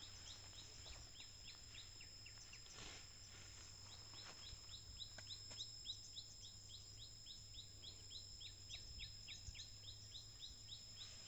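A small bird calling in a fast, even series of short descending chirps, about three a second, over a faint steady high-pitched whine and a low hum.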